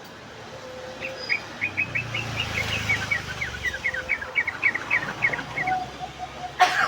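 Yellow-vented bulbul (trucuk) chattering: a rapid run of short chirps, about five a second, lasting some five seconds. A sharp click comes near the end.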